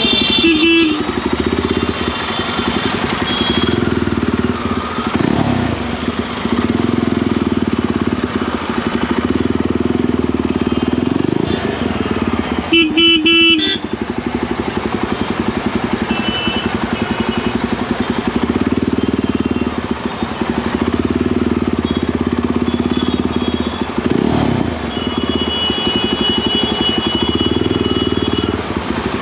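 Motorcycle engine running steadily under way. About halfway through, a vehicle horn honks loudly for about a second, and fainter horn tones come and go at other times.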